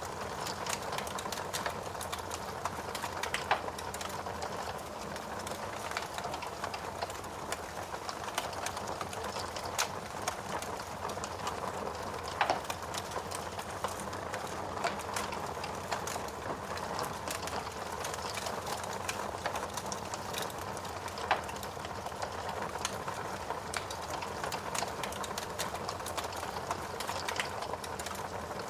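Steady rain with a wood fire crackling: a dense run of small pops and clicks over an even hiss, with a few louder snaps.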